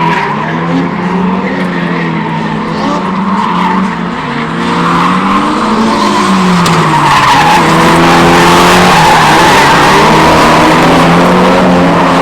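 Drift car engine held high in the revs, dipping and climbing back twice, with tyres squealing as the car slides; the tyre noise grows louder about halfway through and stays loud.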